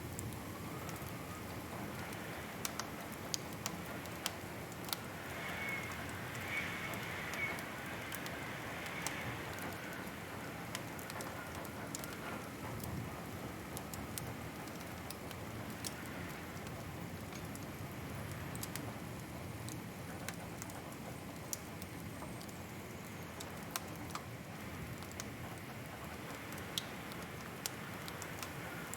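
Wood fire crackling: a steady soft hiss dotted with scattered sharp pops and snaps, and a brief high whistling tone about six seconds in.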